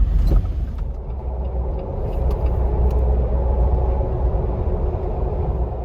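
Jeep Wrangler JL driving: a steady low rumble with an engine hum of several steady tones over it.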